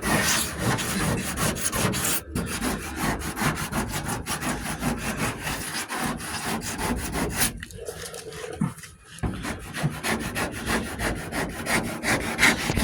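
Body filler on a steel truck door being hand-sanded with rapid back-and-forth scraping strokes, several a second. The strokes break off briefly about two-thirds of the way through, then resume.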